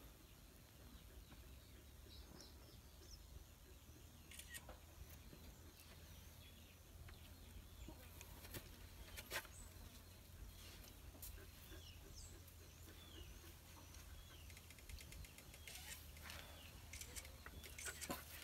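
Faint outdoor quiet with small birds chirping now and then over a low steady hum, and a few sharp clicks, the loudest about nine seconds in.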